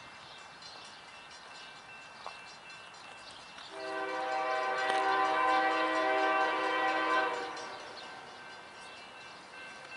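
A train horn sounding one long steady blast of about four seconds, starting a little under four seconds in.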